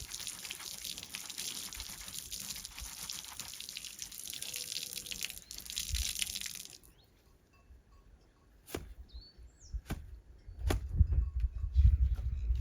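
Liquid running or pouring steadily for about seven seconds, then cutting off abruptly. After that comes a quieter stretch with a few sharp clicks, a brief bird chirp and a low rumble toward the end.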